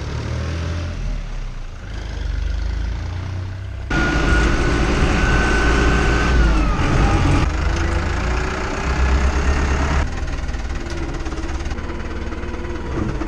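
Farm tractor engine running, heard in several short cuts; from about four seconds in it is louder, with a high steady whine that drops in pitch just before seven seconds.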